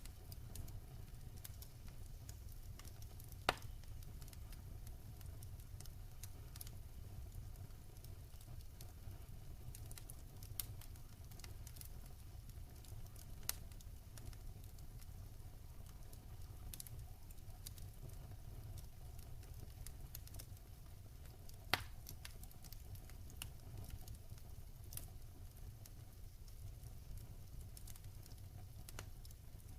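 Wood fire burning in a fireplace, crackling with scattered small pops over a low steady rumble, with two louder snaps, about three seconds in and again past twenty seconds.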